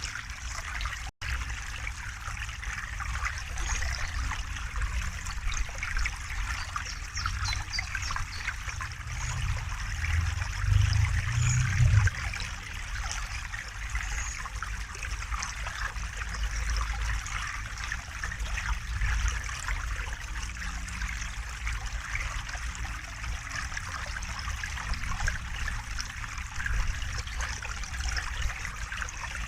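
River water flowing and trickling steadily, with a low rumble that swells for a few seconds around the middle. A momentary gap in the sound about a second in.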